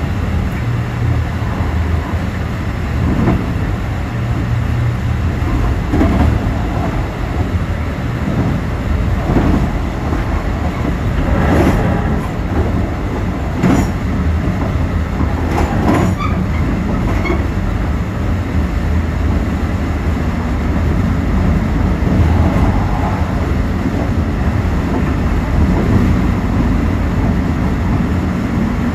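Mugunghwa-ho passenger train running, heard from inside its last car: a steady low rumble of wheels on rail, with clacks every few seconds as the wheels cross rail joints and switches, most of them in the middle stretch.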